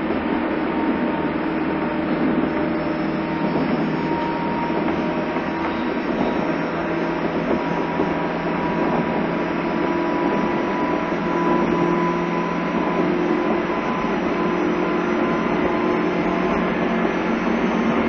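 JR East 201 series electric commuter train running, heard from inside the passenger car: a steady rumble of wheels and running gear with a few faint steady humming tones, and no braking, stop or door sounds.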